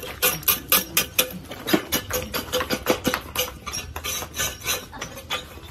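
Hard ceramic pieces clinking and knocking together as they are handled, a fast uneven run of sharp clinks, several a second.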